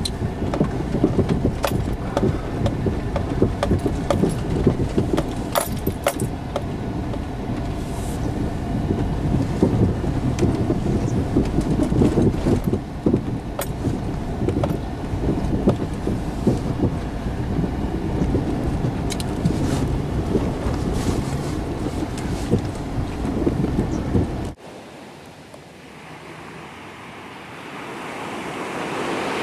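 Car driving through deep snow, heard from inside: a steady low rumble of tyres and engine with a few sharp knocks. It cuts off suddenly about 24 seconds in, leaving a quieter hiss that swells toward the end.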